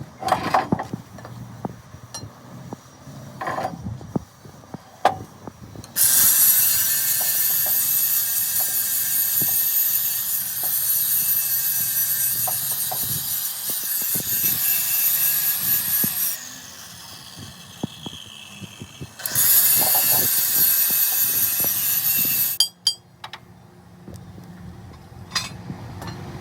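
Angle grinder working steel, in two long loud runs with a falling whine between them as the disc spins down. A few metal knocks come before and after.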